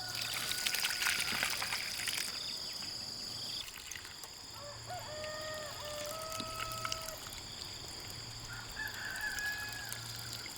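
Water poured from a container into a field-cricket burrow in the ground, splashing loudly for about two seconds and then running on more quietly, to flood the crickets out. A rooster crows about five seconds in, over a steady high drone of insects.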